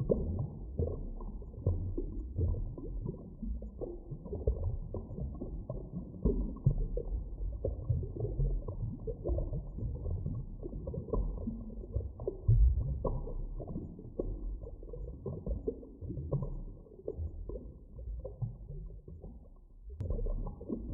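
Muffled underwater ambience: a deep, rumbling wash of water with irregular swells, nothing above a low, dull range. About twenty seconds in it thins briefly and there is a single click before the rumble resumes.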